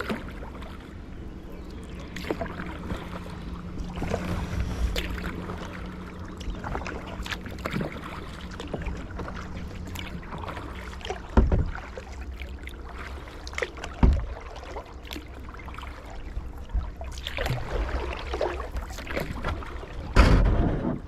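Kayak paddling: paddle blades dipping and splashing in the water in an irregular patter, with a few louder knocks about halfway through and again near the end.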